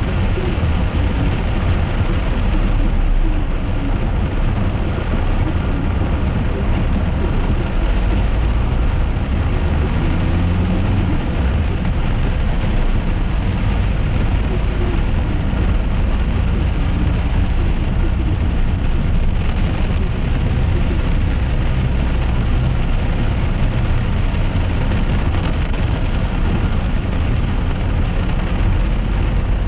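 Steady noise inside a moving car in heavy rain: a low road and engine rumble with rain hitting the car.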